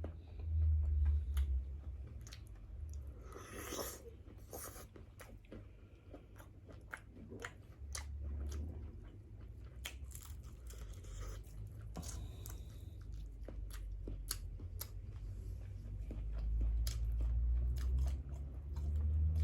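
A person chewing and biting grilled seafood close to the microphone, with many small crunching clicks over a low rumble.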